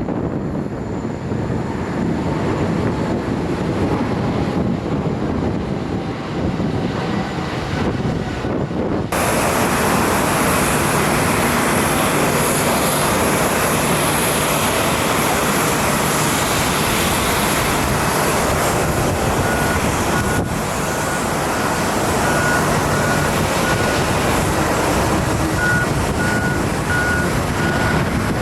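Jet airliner engines running loud and steady, growing brighter and fuller about nine seconds in. In the second half a high beep repeats about three times a second over the engine noise.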